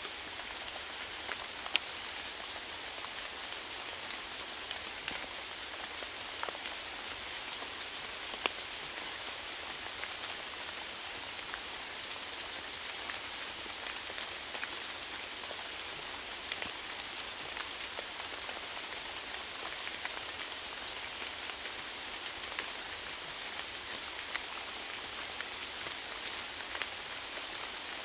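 Steady rainfall: an even hiss of rain on a surface, with individual drops ticking sharply here and there.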